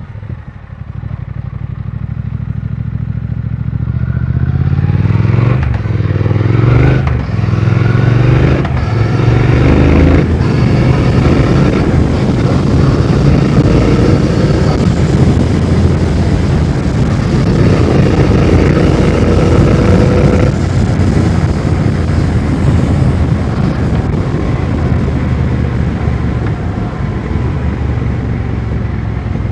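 2020 Triumph Speed Twin 1200's parallel-twin engine accelerating hard, its pitch rising and cutting off at about four quick upshifts, then pulling steadily at high revs before easing off about twenty seconds in. It is being run at high revs (an 'Italian tune') to work fuel injector cleaner through injectors suspected of being dirty.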